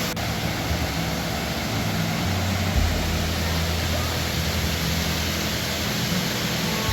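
Waterfall rushing with a steady roar of water.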